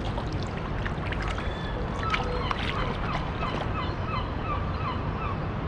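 A bird gives a rapid run of about ten short calls, roughly three a second, starting about two seconds in, over a steady low rumble.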